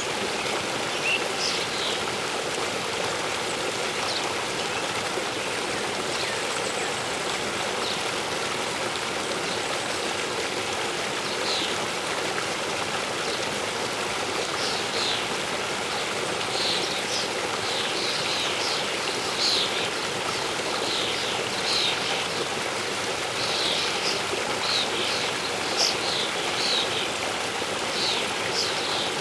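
Steady rushing of a waterfall, with birds chirping over it in short, high, falling notes that come more often in the second half.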